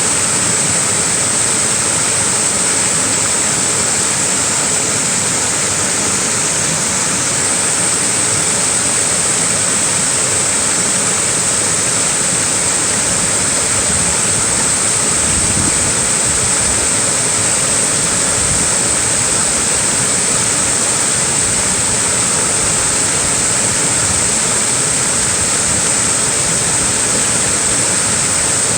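Small waterfall rushing steadily, a constant loud wash of falling water with a strong high hiss, echoing in a valley. A few brief low rumbles come through near the middle.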